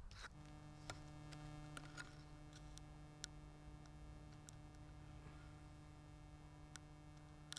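Near silence: a faint steady electrical hum with a few soft, scattered ticks.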